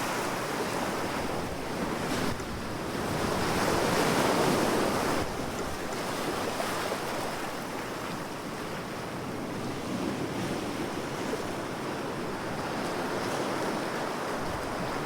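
Sea waves washing onto the shore in a steady rush. One wave surges in about two seconds in and falls away a few seconds later, leaving a softer, even wash.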